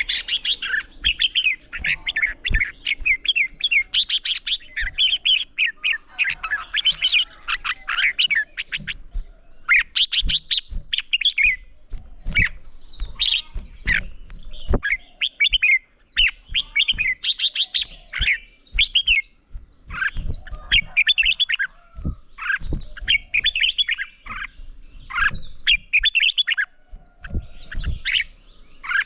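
Red-whiskered bulbuls singing competitively: fast, bubbling warbled phrases that follow one another almost without a pause, with scattered sharp clicks between them.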